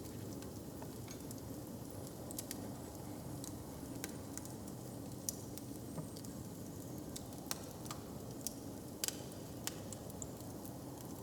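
Wood fire crackling: scattered sharp pops and snaps at uneven intervals over a steady low rumble.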